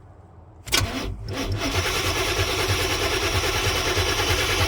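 Chevy G20 van's starter motor cranking the engine, which turns over without firing: a crank-no-start. The starter kicks in suddenly under a second in, catches again after a brief stutter, then cranks steadily with an even pulse.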